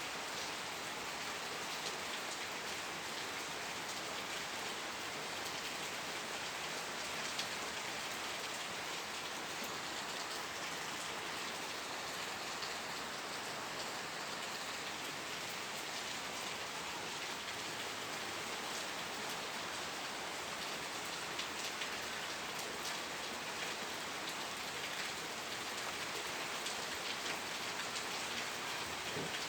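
Steady rain falling, with a dense, even patter of drops.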